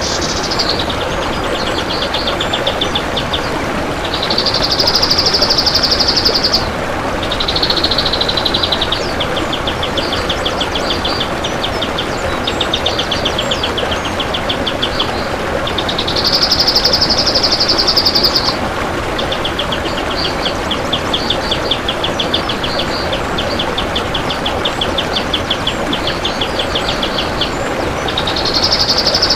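Kapas tembak bird singing long, dense rattling trills: runs of rapid high-pitched notes, each lasting a second or several, repeated with short gaps over a steady background hiss.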